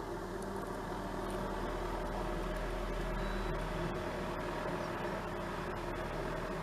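MD500 turbine helicopter running steadily: an even drone of engine and rotors, with several held tones.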